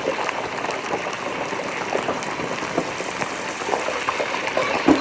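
Chicken wings deep-frying in oil at 375°F: a steady, dense sizzle with many small crackling pops. The wings went in still partly frozen, so the oil is bubbling hard.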